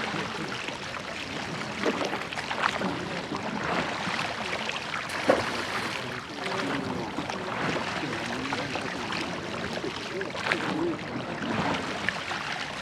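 Water rushing and splashing along the hull of a rowed church boat, with occasional sharp knocks.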